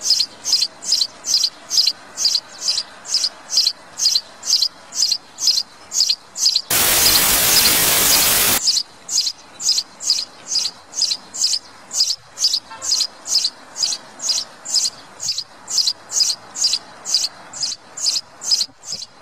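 A high, short chirp repeated evenly, about two and a half times a second. About seven seconds in, a loud hiss covering every pitch cuts over it for about two seconds, then the chirping carries on.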